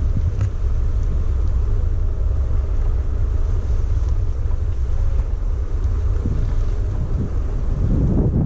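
Heavy wind buffeting the microphone on a moving electric scooter ridden off-road, with a faint motor whine that wavers slightly in pitch and a few rough knocks near the end.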